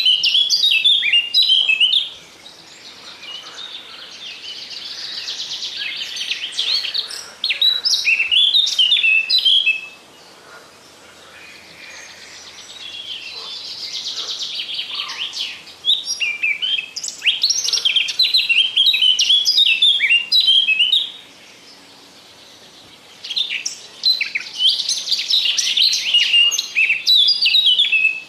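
Songbird singing: four loud bouts of rapid, varied high chirps and whistles, with softer trills between them that slowly swell in loudness.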